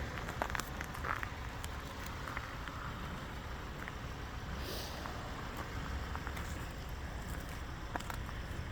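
Audi A5 engine idling with a steady low rumble, with scattered light clicks and a brief hiss about five seconds in.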